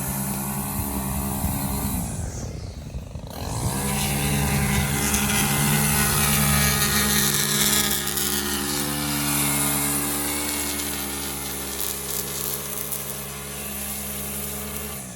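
Small petrol engine of lawn-care equipment running at high revs. The revs sag briefly about two seconds in, then climb back up and hold steady.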